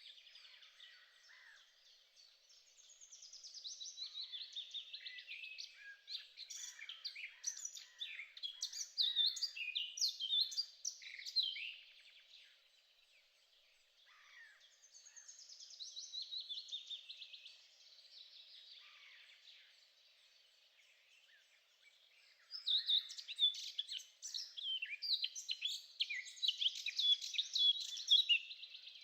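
Birdsong: fast, varied chirps and trills in three long bouts, with quieter pauses between them.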